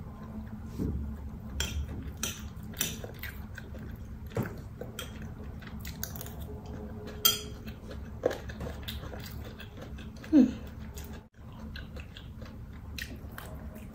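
Close-up eating sounds: biting meat off a chicken drumstick and chewing spoonfuls of cauliflower fried rice, with many sharp mouth clicks and smacks. A louder short mouth sound comes about ten seconds in.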